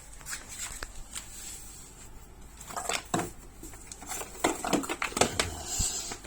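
Irregular clicks and knocks of an espresso machine's power cord and plug being handled and pushed into a wall socket, in clusters about three seconds in and again near the end.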